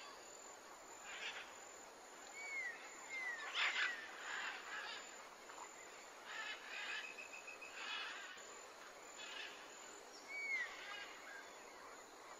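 Faint background birds calling: scattered short chirps and swooping whistled notes, the loudest about four seconds in, with a quick rattling trill near the middle.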